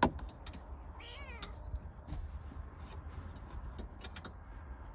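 A cat meowing once, briefly, about a second in, among scattered light clicks and knocks.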